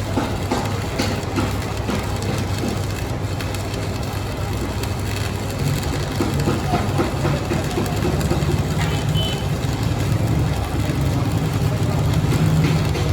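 A machine's motor running steadily with a low hum, with scattered light clicks and knocks; the hum gets a little louder in the second half.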